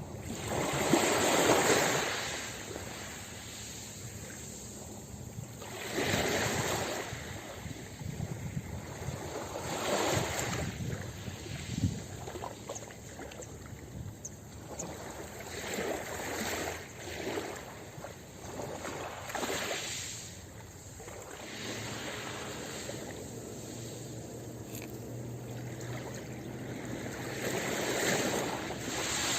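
Ocean waves breaking on a beach: a wash of surf that swells and fades every few seconds, loudest about a second in and again near the end, over a steady low rumble.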